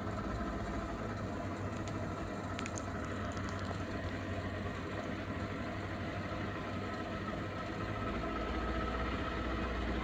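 Speedboat's motor running steadily while under way, a continuous engine hum.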